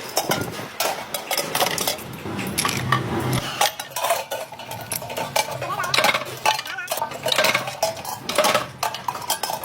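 Light metal clinking and scraping: a rapid, irregular run of taps and scrapes from aluminium kettle pieces being worked and handled, with a few short squeaks about six seconds in.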